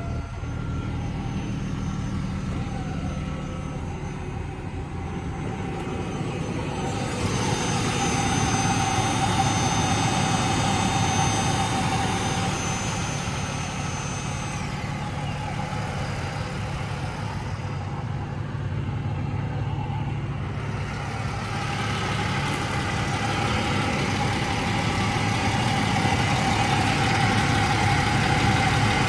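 Jaguar XJS convertible engine idling steadily. A motor whine from the power roof mechanism joins it about seven seconds in, stops about halfway through, and returns near the end.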